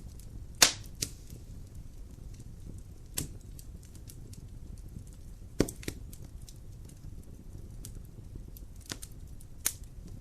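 Wood fire in a fireplace crackling over a low steady rumble of the flames, with sharp pops scattered through, the loudest about half a second in.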